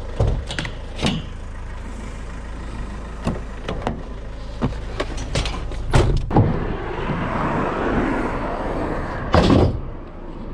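Scattered knocks and clunks of scrap being handled, then a van's sliding side door rolling along its track and shutting with a bang about nine seconds in, over a steady low rumble.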